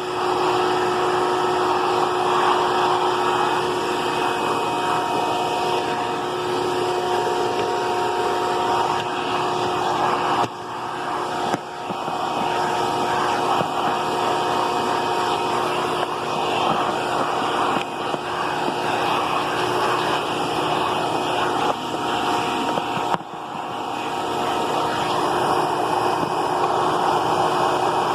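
Vacuum cleaner running steadily, a motor whine over rushing suction air, with a few brief dips in the suction noise.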